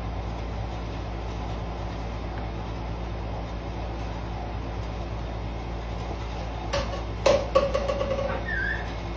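A steady low, machine-like hum, with a few sharp clicks and short tones near the end and a brief rising chirp just before it stops.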